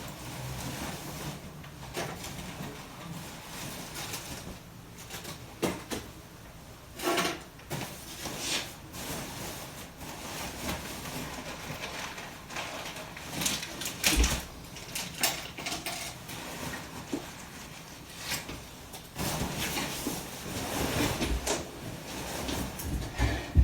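Household handling noise: irregular knocks and clicks with some rustling, busier near the end.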